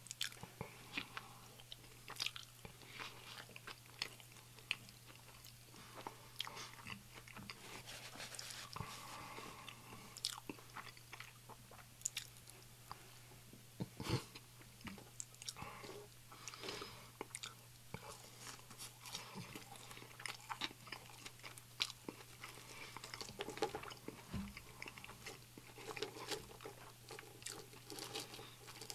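Close-miked chewing and biting of an egg salad sandwich and fries, with irregular wet mouth clicks and soft crunches. A low steady hum runs underneath.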